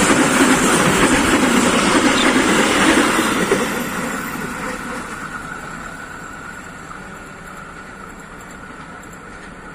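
A train running past close by, its loud rolling noise fading away steadily from about three and a half seconds in as it moves off.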